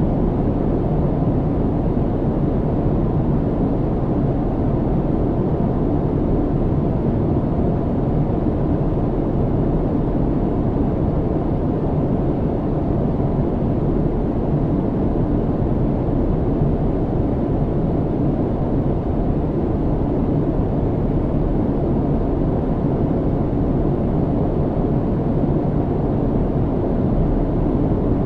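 Airliner cabin noise in cruise flight: a steady, even rumbling hiss, heaviest in the low range, with a faint thin tone held above it.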